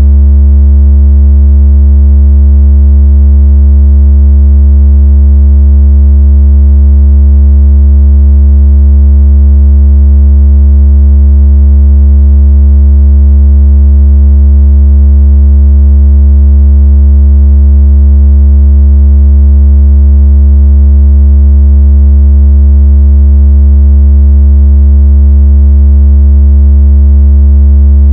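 A very loud, steady, deep synthetic bass tone with faint overtones above it, held unchanged throughout. It is a test-tone style sound meant to make a phone vibrate and push water out of its speaker.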